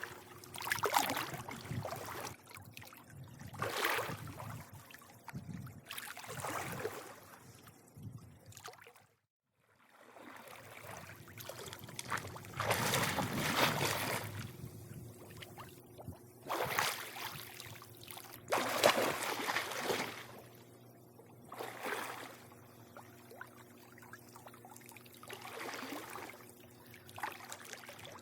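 Swimming pool water lapping and splashing in irregular washes, with a faint steady hum underneath. The sound cuts out completely for about a second, roughly nine seconds in.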